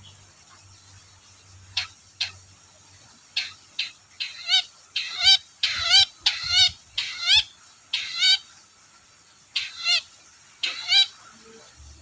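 Long-tailed shrike (cendet) calling in a run of short, harsh, wavering notes. The notes come in quick clusters, thickest in the middle, with a short pause before a last few near the end.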